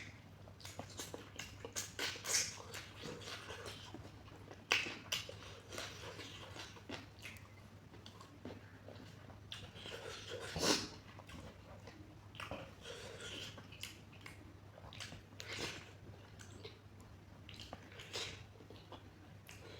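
Close-up mouth sounds of someone eating chicken curry: irregular wet chewing, lip smacks and clicks, with a few louder clicks about five and eleven seconds in.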